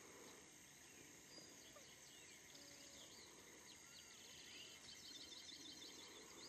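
Faint natural ambience: distant small birds chirping with quick repeated trills, mostly in the second half, over a steady high hiss.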